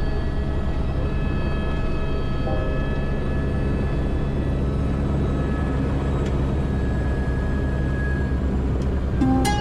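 Helicopter running: a steady, loud low drone with thin, steady high whining tones above it. Plucked-string music comes in near the end.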